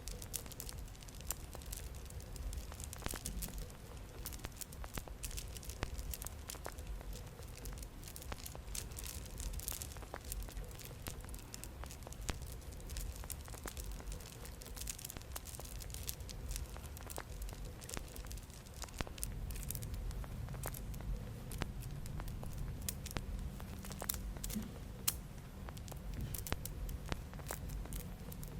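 Small friendship-bracelet beads being handled close to the microphone: a dense, uneven run of quick light clicks and rattles over a low background rumble.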